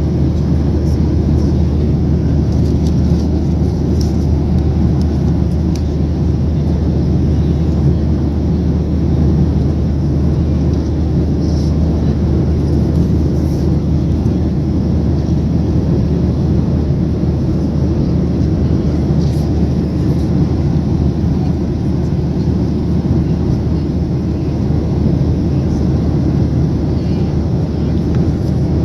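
Steady cabin noise inside a Boeing 737-800 airliner: an even, loud low rumble of engines and airflow, with a few faint ticks over it.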